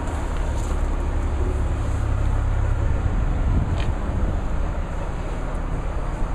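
Steady low engine rumble with outdoor background noise.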